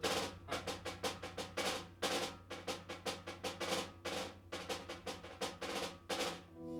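Drums being played: a dense run of quick, sharp snare-like strikes, several a second, over a low steady hum.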